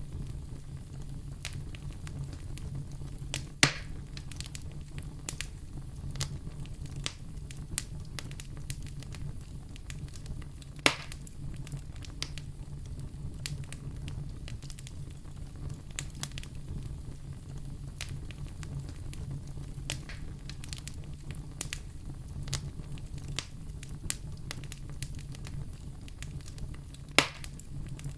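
Wood fire in a fireplace crackling, with frequent small snaps and three louder pops spread through, over a low steady rumble.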